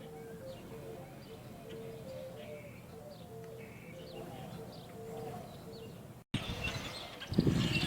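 Wild birds calling: a low short note repeats about twice a second under faint higher chirps. The sound cuts out briefly about six seconds in, then returns louder with sharper chirps and heavy low rumbles near the end.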